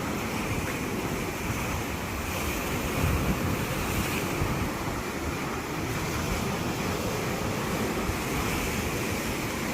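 Sea waves washing and breaking on the shore, a steady surf with a swell about three seconds in, with wind buffeting the microphone.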